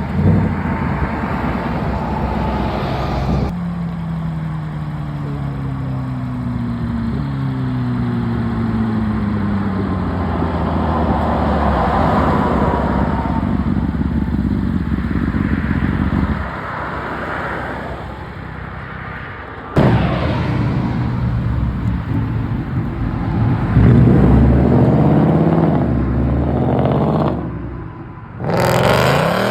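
Car engines revving and accelerating hard, the engine pitch climbing, then dropping back at a gear change and climbing again. The sound cuts abruptly several times between separate pullouts.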